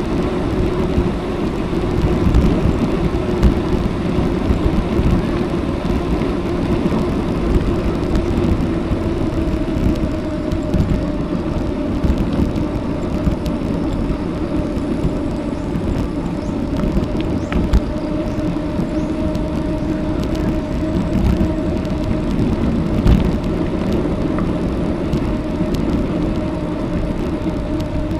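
Steady wind and road rush from riding a bicycle, the air buffeting the camera microphone and the tyres rolling on the road, with a faint steady hum and a few light knocks from bumps.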